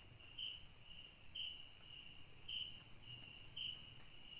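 Chorus of forest insects: a steady high-pitched trill that swells into a louder pulse about once a second, over a fainter, higher continuous drone.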